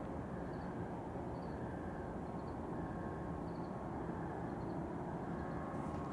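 Distant steady droning hum with faint held tones, a far-off horn-like noise whose source can't be placed. A few faint, short high chirps sound over it.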